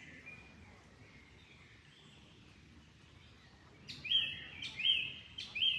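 A songbird calling three times in quick succession near the end, each a short clear whistled note that swoops up and then holds. Under it, a faint steady hiss of flowing water.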